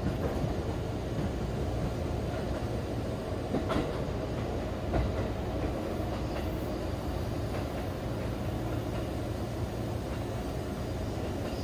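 Running noise inside a Seibu Chichibu Line electric train car under way: a steady low rumble of wheels on the rails, with a few sharp clacks about four and five seconds in.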